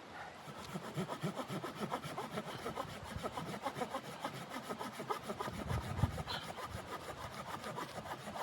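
A saw cutting through wood in quick, even back-and-forth strokes, with a dull knock about six seconds in.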